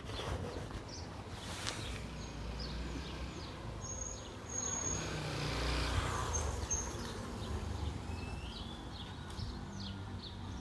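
Outdoor ambience: a low steady rumble with a few short high chirps from small birds or insects scattered through it, one of them rising in pitch near the end.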